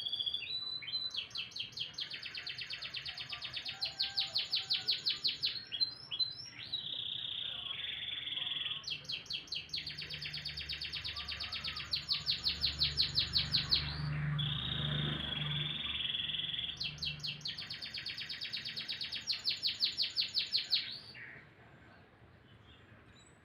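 Domestic canary singing: three long phrases of rapid trills, each growing louder, joined by steady held whistled notes. The song stops about two seconds before the end.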